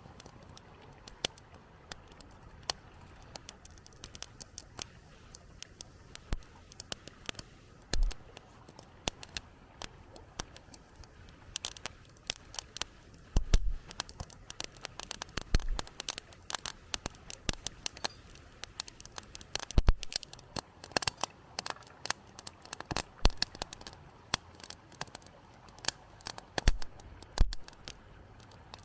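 Irregular sharp clicks and snaps, sparse at first and coming thicker from about halfway, with a few dull low thumps among them.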